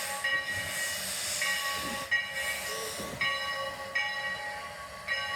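Small steam locomotive hissing steam as it moves slowly, with its bell ringing: a sharp ringing strike about every second.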